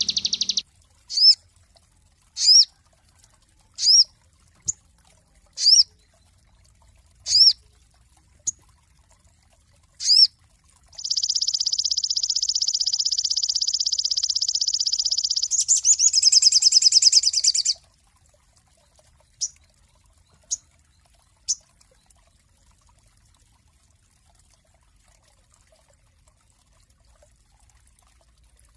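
Sogon songbird singing: a run of short, sharp, high whistled notes that sweep downward, one about every second and a half, then a long, fast, even trill of several seconds that breaks into a rougher rattling trill. A few more short notes follow, then the bird falls silent.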